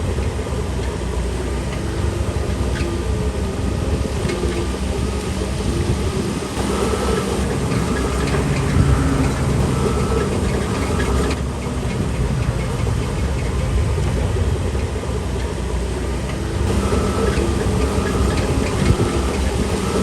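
Shantui DH17C3 Pro bulldozer's diesel engine running steadily under work, with scattered clanks. A short high tone repeats about once a second through the middle and again near the end.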